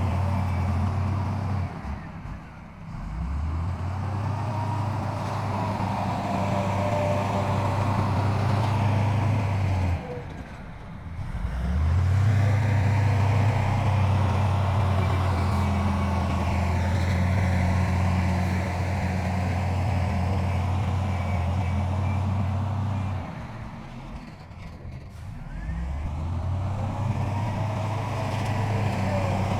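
Heavy diesel engine of earth-moving machinery running steadily. Three times it drops off and then climbs back up in revs.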